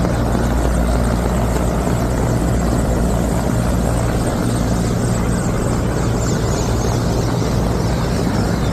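Helicopter flying overhead, its rotor and engine noise steady and loud.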